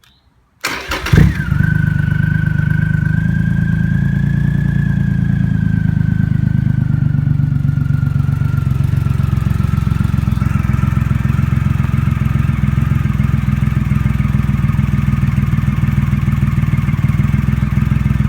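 A 2005 Triumph Rocket III's 2.3-litre three-cylinder engine with a custom exhaust is started about a second in, catching with a short burst of revs. It then settles into a steady, deep idle.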